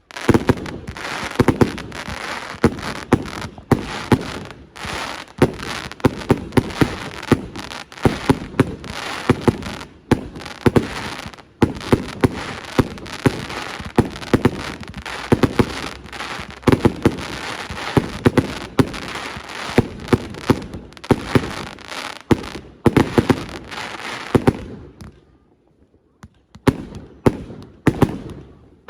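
Fireworks display: shells bursting in a rapid, dense barrage of bangs with continuous crackle between them, then a short lull about 25 seconds in before more bangs start.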